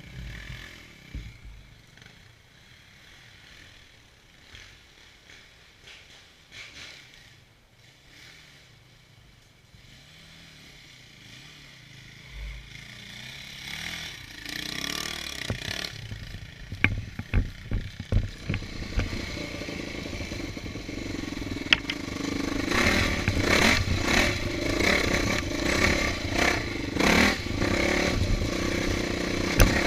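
Off-road motorcycles on a rocky trail hill climb. Faint at first, then the engines grow louder from about halfway, with clattering knocks around two-thirds of the way in. The engines run loud and revving over the last several seconds.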